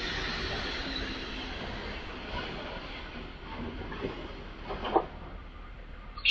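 A train rolling past on the line, its wheel noise fading steadily as it moves away, with a few clicks and a short sharp clank about five seconds in.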